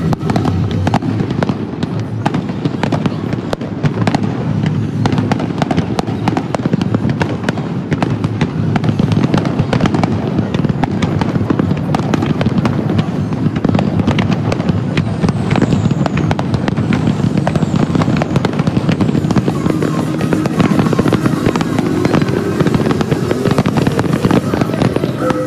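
Fireworks display: a continuous, dense barrage of bangs and crackles from aerial shells bursting.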